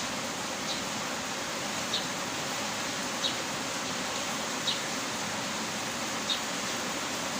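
Heavy rain falling steadily. A short, high click recurs about every second and a half over the rain's even hiss.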